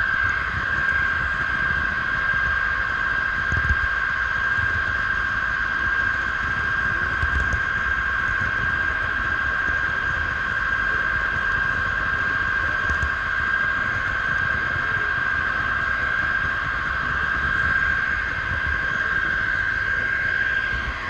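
HO-scale model train running on its track, heard from a camera riding on board: a steady high whine from the small electric motor and gearing, with irregular low knocks from the wheels on the rails.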